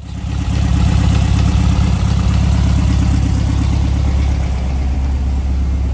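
Air-cooled flat-four engine of a 1970 VW Beetle idling steadily. It fades in over the first half-second.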